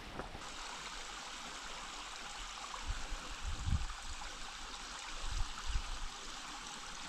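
Mountain stream running, a steady rush of flowing water, with a few soft low bumps in the middle.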